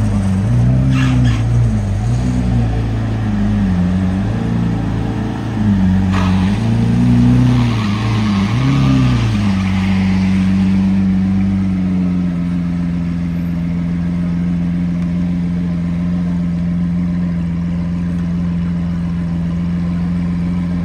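Car engine revving in repeated blips, its pitch rising and falling over and over, then settling to a steady idle about halfway through.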